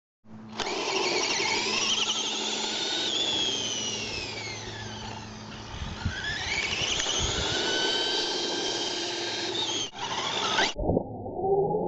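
High-pitched whine of a small electric RC truck motor and its gears, the pitch falling and then rising again as the throttle changes. It cuts off suddenly near the end and is followed by a muffled, dull stretch.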